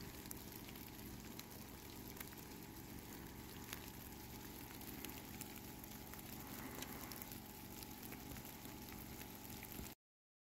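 Faint steady hiss of heavy snow falling, with scattered light ticks of flakes landing; it cuts off suddenly near the end.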